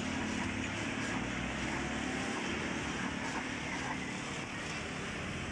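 1984 Suzuki FX's small three-cylinder petrol engine idling steadily, heard from behind the car near its exhaust.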